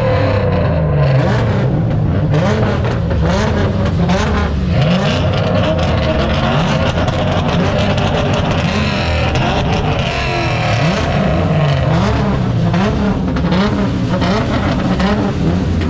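Several car engines running at once, with engines revving up and down repeatedly as cars drive past.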